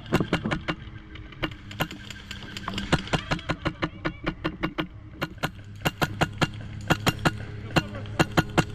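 Airsoft gunfire: rapid, irregular sharp cracks, several a second, over a low steady hum.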